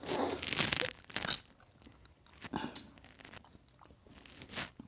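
A person chewing and crunching a mouthful of food close to the microphone, loudest through the first second, then a few fainter crunches.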